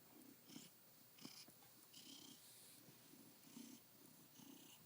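Domestic cat purring softly and steadily, a faint rhythmic rumble; a contented purr.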